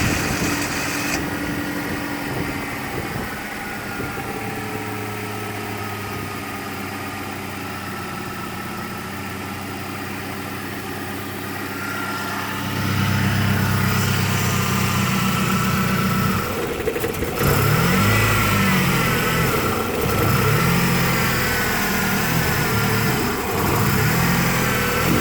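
1993 Fox-body Ford Mustang's 2.3 L four-cylinder engine running at a rough idle. About 12 seconds in it gets louder, and from about 17 seconds the engine speed rises and falls over and over, every second or two.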